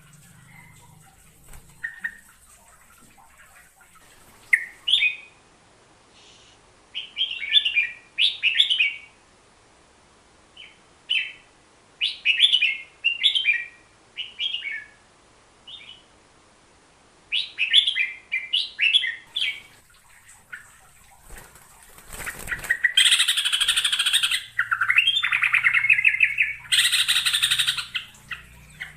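A bulbul (merbah jambul) singing: short phrases of quick chirpy notes with pauses between them. About twenty-two seconds in comes a longer, louder, noisier stretch with calls running through it.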